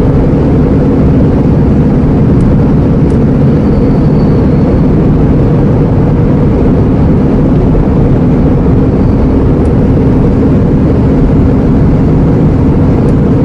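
Iveco Eurocargo lorry's diesel engine and road noise heard from inside the cab, a steady low drone while cruising at an even speed.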